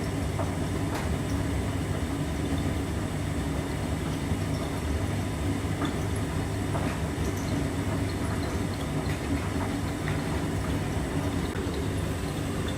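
Hotpoint household appliance running with a steady low motor hum and rumble, with faint short squeaks scattered through it.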